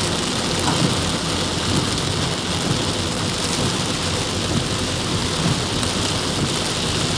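Heavy rain falling steadily: a dense, even hiss of rain pouring onto surfaces.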